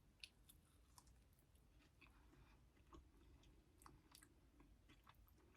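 Faint chewing of buffalo wings, with scattered soft wet clicks of the mouth and a low room hum.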